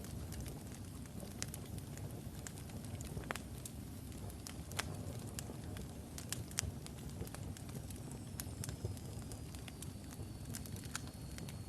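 Wood logs burning in a fireplace: a steady low rumble of flame with irregular sharp crackles and pops. Near the end a faint thin high whistle slides slowly lower.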